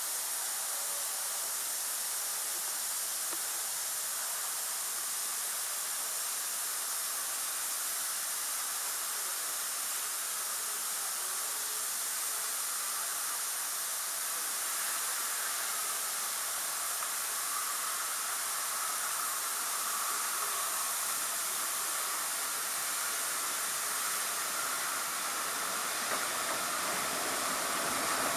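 Steam locomotive letting off a steady hiss of escaping steam, typical of a steam leak, growing a little louder near the end.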